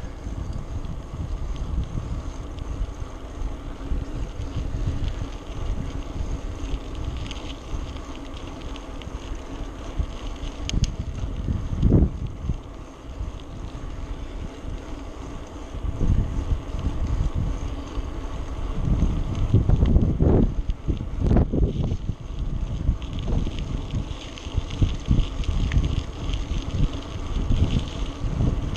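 Wind buffeting the microphone of a camera carried on a moving bicycle, a low uneven rumble with a few louder gusts about two-thirds of the way through.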